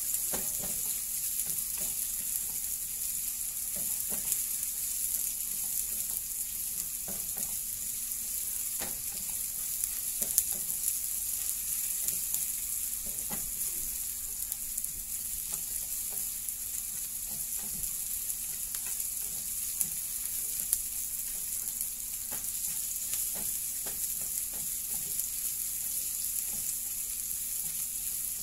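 Sliced onion and garlic sizzling steadily in hot oil in a nonstick frying pan, with light scattered scrapes and taps of a utensil stirring them.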